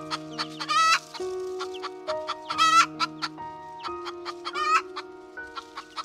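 Animal clucking calls: many short clucks and two longer, wavering calls about a second in and between two and three seconds in, over background music with steady held notes.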